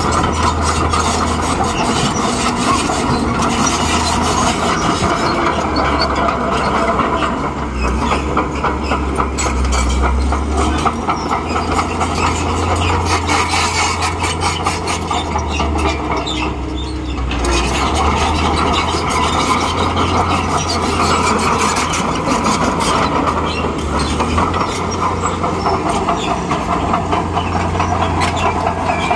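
Bulldozer working: its diesel engine runs steadily under a continuous rapid clatter, typical of steel crawler tracks moving.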